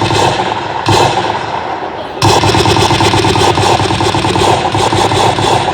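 Rapid automatic gunfire in bursts. One burst runs to about two seconds in, and after a short lull a longer, continuous burst starts and runs on.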